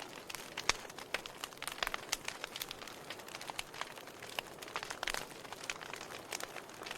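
Wood fire crackling, with frequent irregular sharp pops and snaps over a soft steady hiss.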